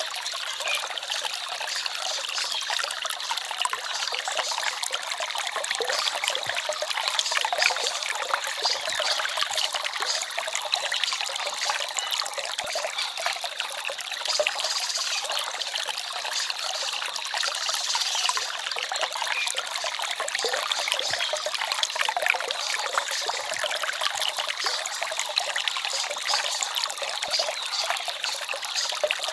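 Small forest stream trickling and babbling over rocks, a steady splashing flow.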